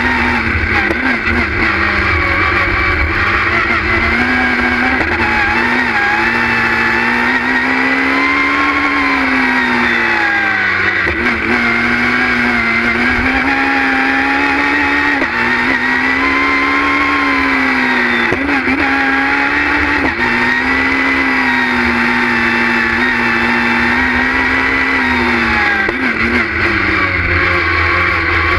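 Citroën Saxo S1600 rally car's 1.6-litre four-cylinder engine running hard at high revs, heard inside the cockpit. The pitch swells up and down with the throttle, with several brief dips.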